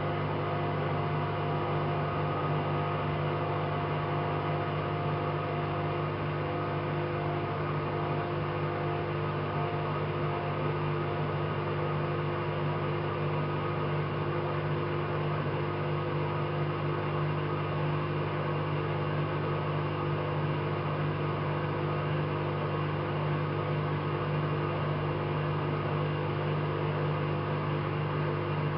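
AEG Lavamat 5210 washing machine running, a steady mechanical hum with no pauses.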